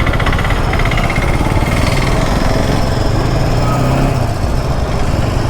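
Bajaj Pulsar NS200's single-cylinder engine running steadily under way, with road and wind noise.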